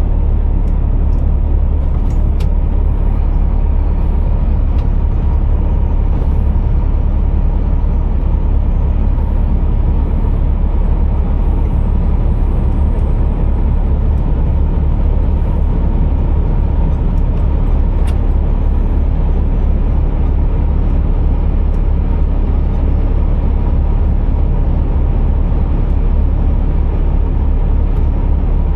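Scania R480 heavy truck running with a steady deep rumble.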